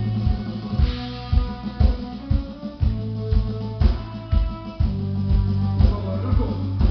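Rock band playing live without vocals: guitar and bass hold heavy low notes while a drum kit keeps a steady beat of bass-drum hits.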